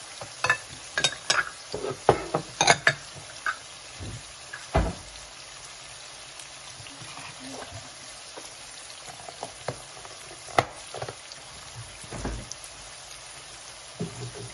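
Split chana dal, onions and tomatoes frying in oil in an aluminium kadhai: a steady sizzle with sharp pops and crackles, many in the first five seconds and a few more later.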